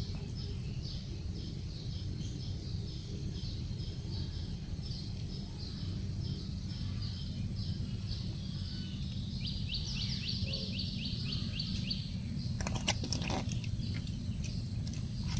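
A bird chirping repeatedly, a few short high notes a second, then a quicker run of rising chirps, over a steady low background rumble. A couple of sharp clicks come near the end.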